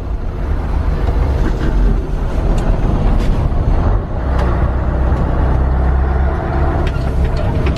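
Scania 142H truck's V8 diesel engine running steadily with a deep, low rumble.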